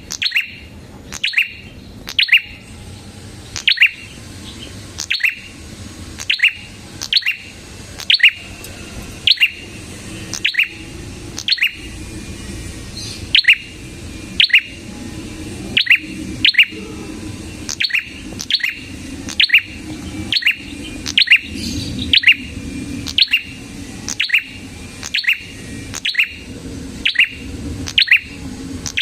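Prenjak kepala merah, a small Indonesian songbird, calling persistently: short, sharp, high chirps repeated about once or twice a second without a break, some coming in quick pairs.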